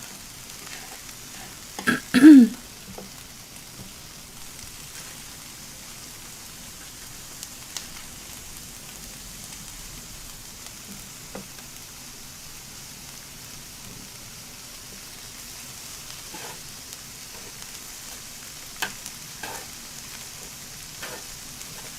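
Shrimp and vegetables sizzling on an electric tabletop grill, a steady high hiss. About two seconds in comes a short, louder vocal sound with a sliding pitch, and a few light clicks follow later.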